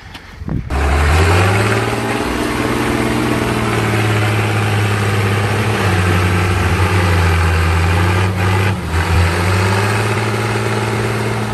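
Tractor diesel engine running hard after a sudden start. Its pitch climbs over the first second or two and then holds steady, with a brief dip in revs about eight and a half seconds in.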